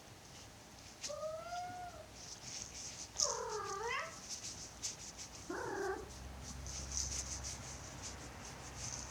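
A domestic cat meowing three times, each call short, the middle one dipping then rising sharply, followed by a low steady purr from about six seconds in.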